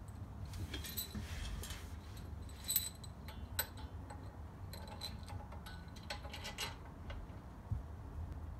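Irregular light metallic clicks and clinks as the bearing housing tops are fitted to a reel mower's cutting cylinder and their small screws are handled and tightened, with a cluster of clicks a little past the middle.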